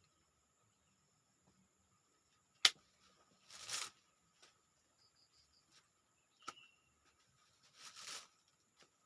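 Two sharp knocks, about four seconds apart, each followed a second later by a short scraping rustle. Insects trill steadily throughout.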